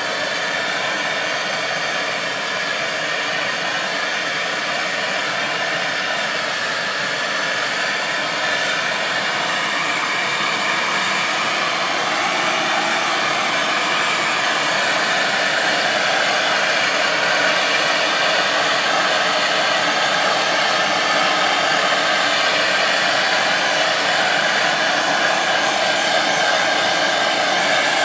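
MAP gas torch burning with a steady hiss, its flame played over wax to melt it off. The flame grows a little louder about a third of the way in and again around the middle.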